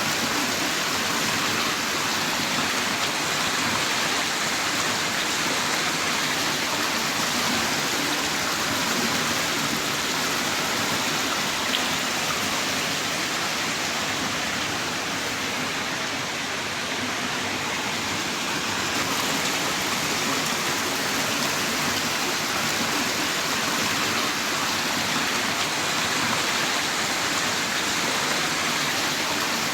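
Heavy rain falling steadily in a downpour, an even rushing hiss that doesn't let up.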